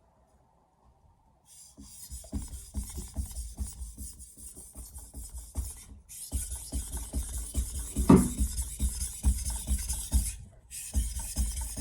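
Santoku blade being stroked back and forth over a wet soaking whetstone loaded with slurry, a rapid gritty rasping that starts about two seconds in and runs in three spells with brief pauses between them; the blade is already removing steel. A louder knock sounds about two thirds of the way through.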